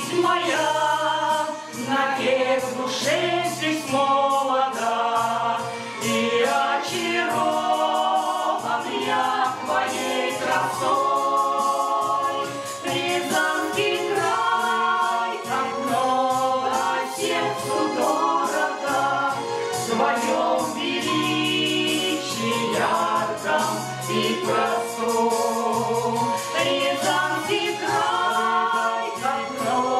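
A folk ensemble singing a song in several voice parts, with instrumental accompaniment, at a steady loud level throughout.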